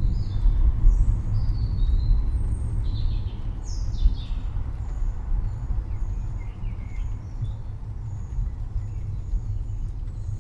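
Low rumble of rolling thunder slowly easing off, with small birds chirping repeatedly high above it.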